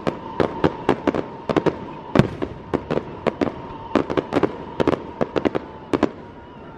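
Aerial fireworks going off: a rapid, irregular string of sharp bangs and crackles, several a second, over a steady high tone, thinning out near the end.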